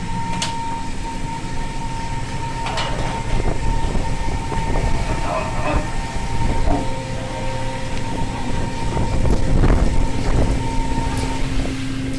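Steady drone of a fishing vessel's engine and deck machinery, with a held humming tone and scattered clanks and knocks.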